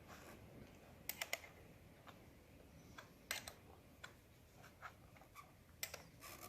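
Faint, scattered light clicks and taps, a quick cluster of three about a second in and a few more later, over near silence.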